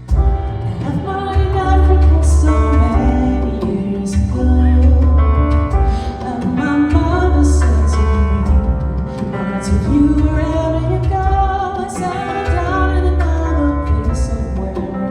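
A woman singing soul live, her voice held over deep, sustained bass notes that come in long swells every couple of seconds.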